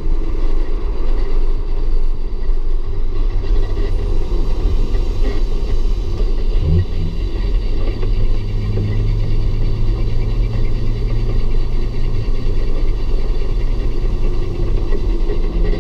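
Audi S4's engine running under a constant low rumble, with a short rise in revs about seven seconds in and the pitch climbing again near the end.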